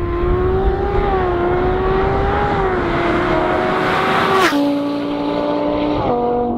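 Engine of a Hennessey twin-turbo Audi R8 V10 (5.2-litre V10) running hard at high revs. Its pitch holds roughly steady, then steps down sharply with a brief hiss about four and a half seconds in, and steps down again about six seconds in.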